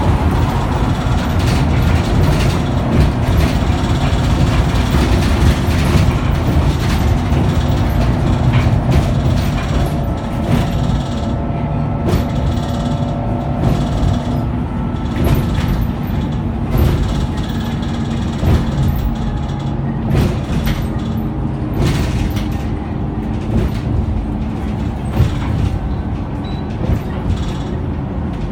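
Scania K94UB tri-axle double-decker bus on the move, heard from inside: a steady low engine and road rumble with frequent short rattles from the body and fittings. It eases off a little about a third of the way in.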